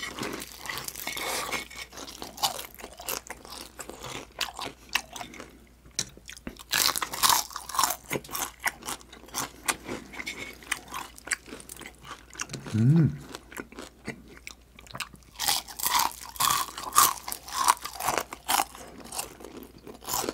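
Close-miked biting and chewing of crispy deep-fried chicken skin, with clusters of sharp crunches as the coating breaks and quieter chewing between them. About thirteen seconds in, a short rising hum from the eater.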